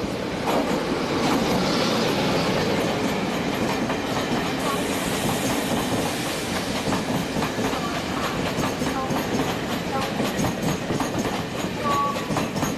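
Train running along the tracks at a station platform, a steady rumble of wheels on rail with many quick clicks over the rail joints.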